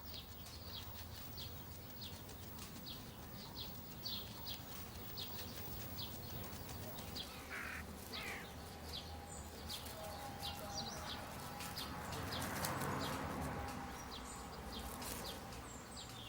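Quiet outdoor ambience with small birds chirping: short high chirps repeated every second or so over a faint low hum, with a soft swell of rustling noise about twelve seconds in.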